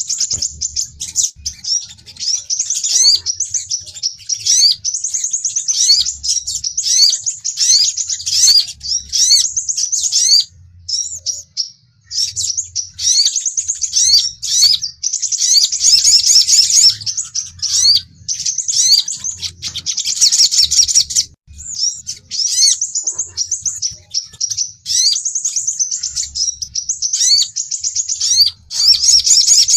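Sunbirds calling: rapid high-pitched chirps and twittering trills packed densely together, with short breaks about eleven and twenty-one seconds in. These are sogon and crimson sunbird lure and challenge calls.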